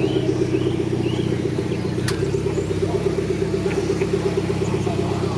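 Car engine idling close by: a steady, even low drone, with one sharp click about two seconds in.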